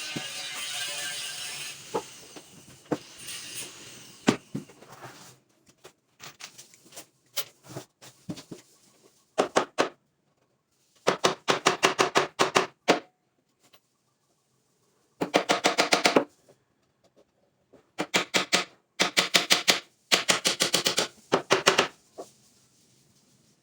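Bursts of fast, evenly spaced mechanical knocks, about ten a second, each burst lasting one to two seconds, six bursts in all through the second half; a stretch of hiss and a few single clicks come first.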